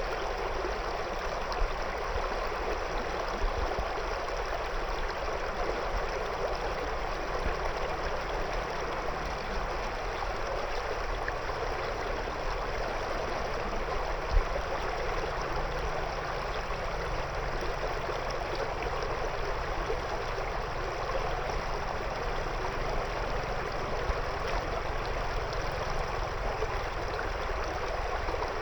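A shallow river flowing around stones: a steady rushing and babbling of water, with an occasional soft low thump.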